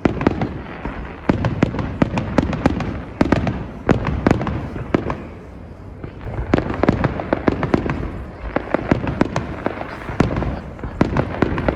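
Fireworks display: rapid volleys of sharp bangs and crackles over a low rumble of booms, easing off for a couple of seconds past the middle and then building again.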